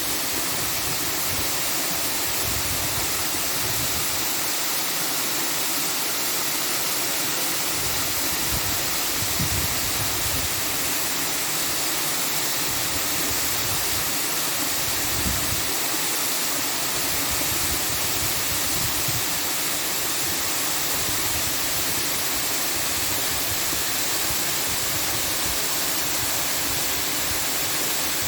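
Steady, even rushing noise with a bright hiss and no breaks, like falling water or a noise track.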